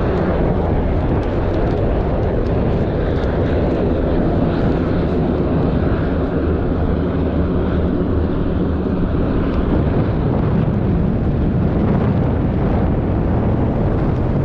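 Jet aircraft engines running, a loud, steady roar.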